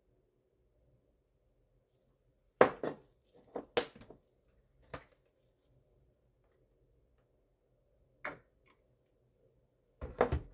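Kitchenware knocking and clinking, a scatter of sharp separate knocks: a few close together after a quiet start, one or two single ones, then another quick cluster near the end.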